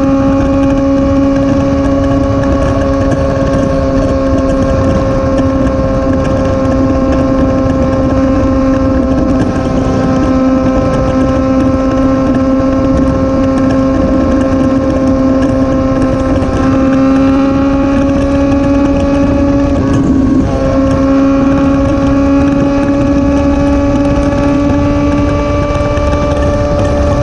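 Motorcycle engine running at a steady high cruising speed, with wind rushing over the microphone. The engine note wavers slightly and dips briefly about twenty seconds in.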